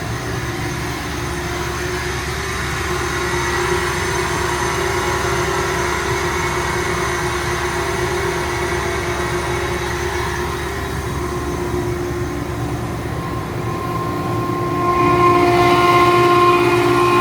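Ingersoll Rand 50 hp air-cooled rotary screw air compressor running steadily under load, a steady hum with several held tones. Near the end it grows louder and takes on more high-pitched tones.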